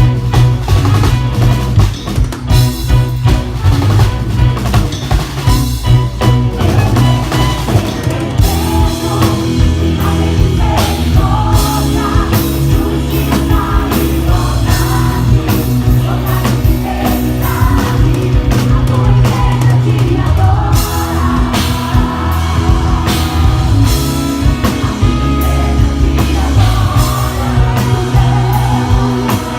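Live gospel worship band playing a medley with drum kit, bass and guitar, and singing over it.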